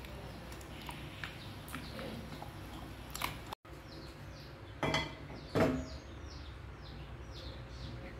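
Quiet room tone with a few soft knocks about three and five seconds in; from the middle on, a small bird chirps in the background, short falling chirps two or three a second.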